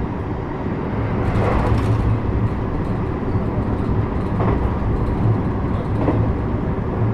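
JR West 321 series electric train running, heard from inside the car: a steady low rumble from wheels and track, with a few short clatters about one and a half, four and a half and six seconds in.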